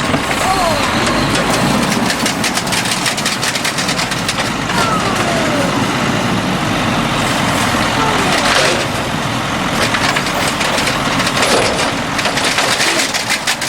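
Garbage truck at work at the curb, its engine running while trash is tipped in and crushed, with many crunching and clattering sounds.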